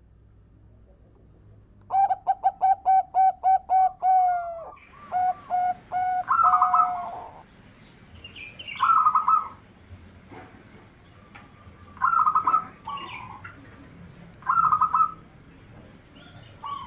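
Zebra dove (perkutut) singing: a quick run of about ten short, evenly spaced cooing notes, then a few short rolling coo phrases spaced a couple of seconds apart.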